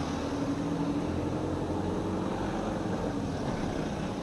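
Steady hum of a car's engine and road noise, heard from inside the moving car.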